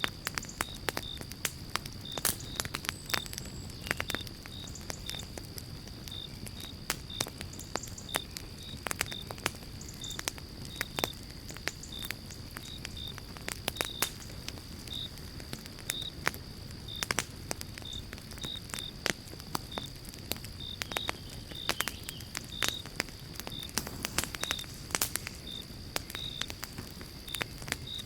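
Campfire of pine logs crackling, with frequent sharp pops. Underneath run a thin steady high tone and a short high chirp repeating about twice a second.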